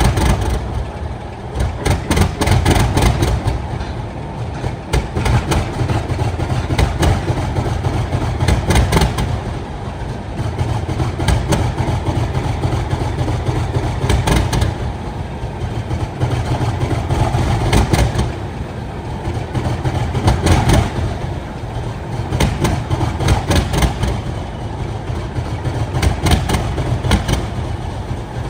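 Heavy diesel engine running after a cold start: a deep rumble with frequent sharp knocks, its loudness swelling and easing every few seconds.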